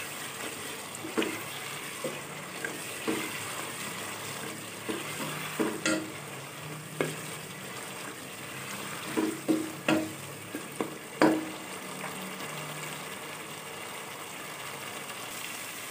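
Beef mince (keema) sizzling as it fries in oil in a coated pot, at the bhunna stage after its cooking water has dried off. A spatula stirs and scrapes through it, knocking against the pot now and then, most loudly about eleven seconds in.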